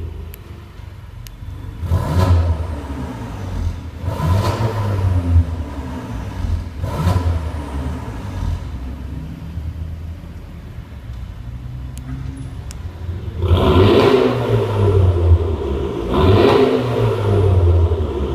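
Seat Leon FR engine revved through a remote-controlled Varex valved exhaust: three short blips a couple of seconds apart, idling in between, then two longer, louder revs near the end.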